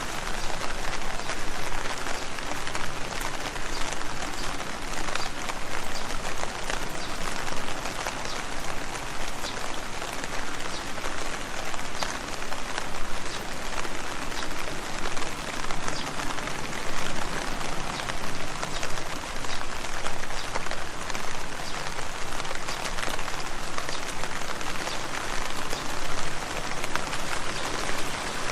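Steady rain falling on leaves, a dense patter of many small drop hits.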